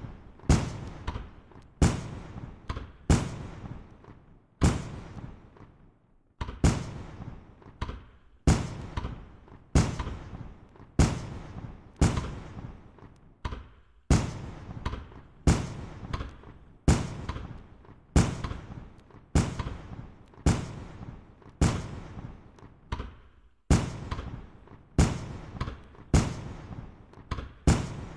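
Aerial fireworks bursting in quick succession: sharp bangs at roughly one or two a second, some in close pairs, each trailing off in a rumbling echo.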